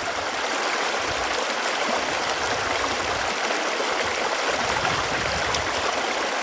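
Running water flowing steadily, an even, continuous rush with a light gurgle.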